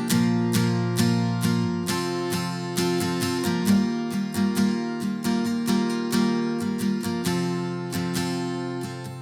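Solo acoustic guitar strumming chords in a steady rhythm, several strokes a second.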